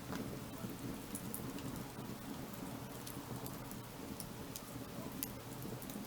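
Firewood burning in an open wood fire: a steady low rush with scattered sharp crackles and pops, a few each second.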